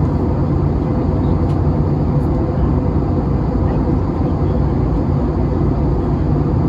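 Steady drone inside the cabin of an Airbus A321neo: engine and airflow noise at an even level, with a faint steady hum running through it.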